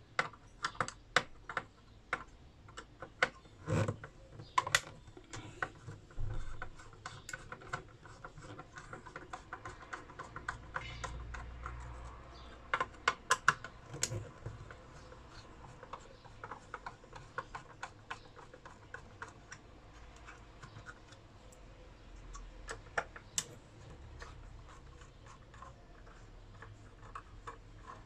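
Irregular light clicks, taps and small clatter of screws, a screwdriver and casing parts as an electronic inverter drive is taken apart by hand, with busier bursts of clicking about a second in, around the middle and near the end.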